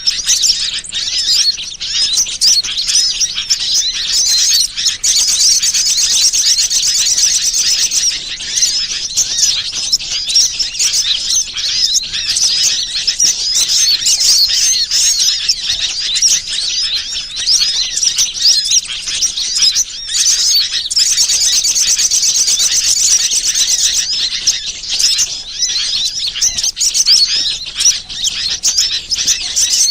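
Dense, continuous chattering of many small songbirds, high-pitched chirps and trills overlapping without pause: a bird-lure (pikat) recording meant to draw wild birds in. The trilling grows thicker for a few seconds about five seconds in and again about twenty seconds in.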